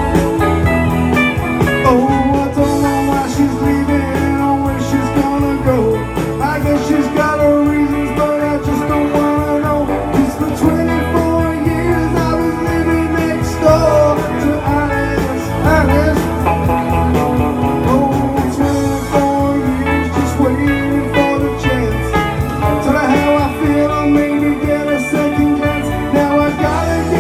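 Live rock band playing an instrumental passage: a lead electric guitar with bending notes over bass and drums.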